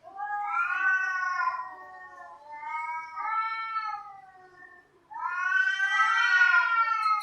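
Cats yowling: three long, drawn-out calls, each rising and then falling in pitch, the last and loudest starting about five seconds in.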